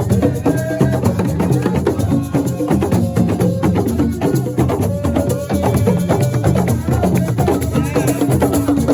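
Assiko music, a fast, dense rhythm of drums and percussion that runs on without a break.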